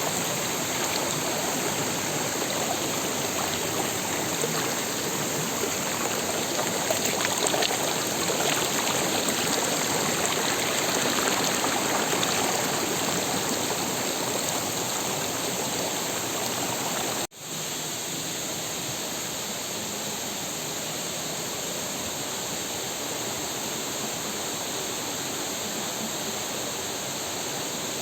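Steady rush of water from a waterfall and river, an even noise with no distinct events. It breaks off for an instant about 17 seconds in and carries on a little quieter.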